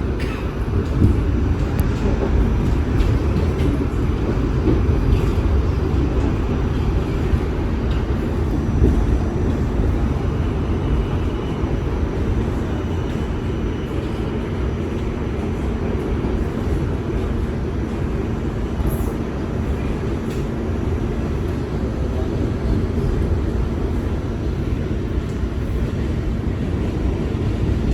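New York City subway train running between stations, heard from inside the car: a steady low rumble of wheels on rail and traction motors, with a few faint clicks.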